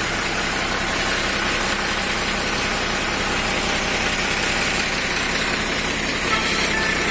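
Diesel engine of a UD Nissan Diesel PK260 head tractor running steadily, a continuous even drone.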